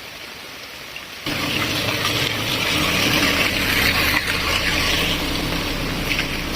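Water gushing in a steady, even stream, cutting in suddenly about a second in.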